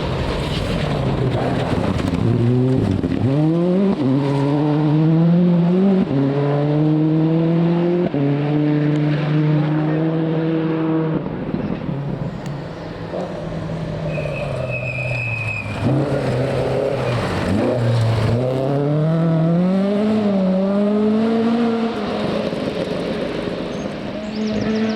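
Rally car engine accelerating hard out of a corner and up through the gears. The pitch dips as the driver lifts, then climbs and drops back at each upshift. This happens twice.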